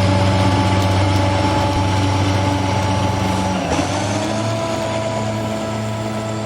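Engine sound from a sound-equipped HO model locomotive, running steadily, its note stepping to a different pitch a little past halfway.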